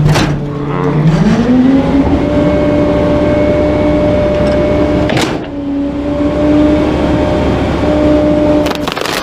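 Garbage truck's diesel engine steps up from idle to a higher, steady speed about a second in, as when it is raised to run the hydraulic packer. There is a sharp knock at the start and another about five seconds in.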